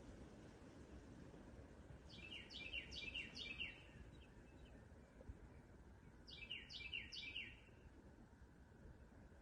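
A songbird singing two short phrases of quick, repeated down-slurred whistled notes, one about two seconds in and another about six seconds in, over a faint low rumble of outdoor background noise.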